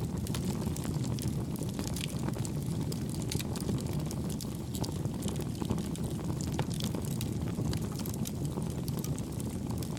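Campfire burning steadily: a low rushing of flame with many small, light crackles and pops scattered throughout.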